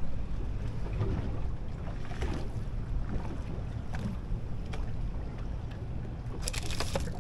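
Steady low rumble and wind noise aboard a small fishing boat at sea, with a few light clicks and knocks near the end.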